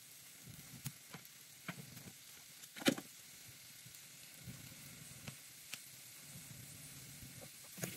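Food sizzling faintly in a pan on the stove, with scattered pops and ticks, the sharpest about three seconds in.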